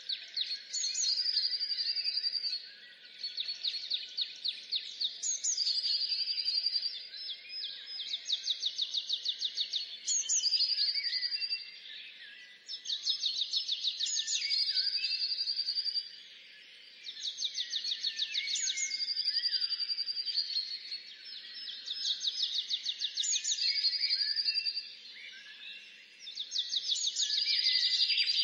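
A songbird singing the same short phrase over and over, about once every three seconds: a rapid trill of ticking notes ending in a brief higher flourish. A faint steady hiss runs underneath.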